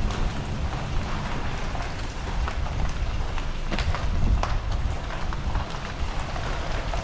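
Truck driving slowly over a rough, rocky trail: a steady low rumble from engine and tyres, with scattered crunches and clicks of gravel and stones under the tyres.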